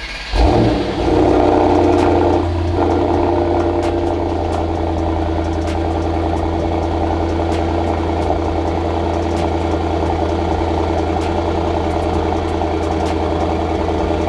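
Mercedes-AMG GT 63 S 4-Door's twin-turbo 4.0-litre V8 (M177) cold-starting with the exhaust in Sport Plus mode: a brief crank and a loud flare about half a second in, a high fast idle, then after about two seconds it settles a little lower into a steady idle with a rumble.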